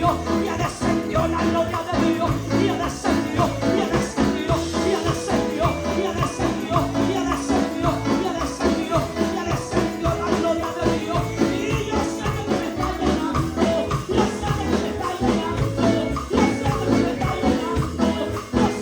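Upbeat Spanish-language Pentecostal worship choruses: singing over a band with a steady driving beat and shaken percussion such as tambourine.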